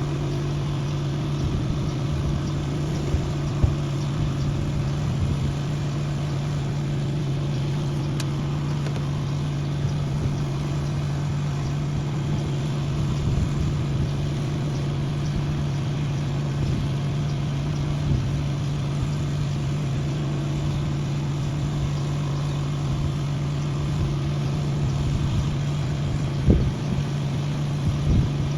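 An engine running steadily at one speed, with a few light knocks and a louder knock near the end.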